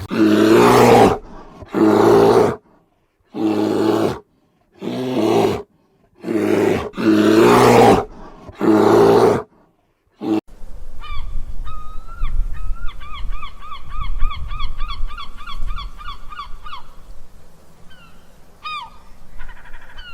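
About seven loud honking animal calls, each under a second, with abrupt silent gaps between them. About ten seconds in, a bird takes over with a quick series of high, repeated chirps over a low rumble.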